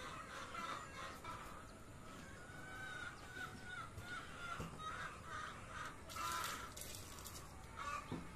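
Faint bird calls repeating over a quiet outdoor background, with a louder, noisier call about six seconds in.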